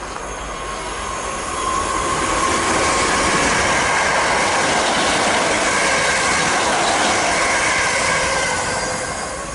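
An electric multiple unit passes through the station at speed. Its rushing noise builds up over the first couple of seconds, holds loud and steady, and fades near the end, with a steady high-pitched whine running through it.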